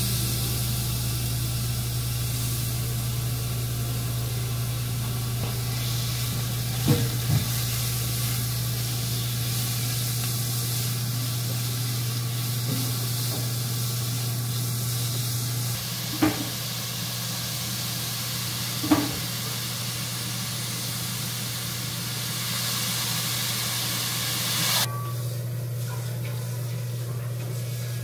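Finely cut chicken sizzling steadily in a hot pot after being tipped in, with a few short knocks of the stirring utensil against the pot. A steady low hum runs underneath, and the sizzling cuts off suddenly near the end.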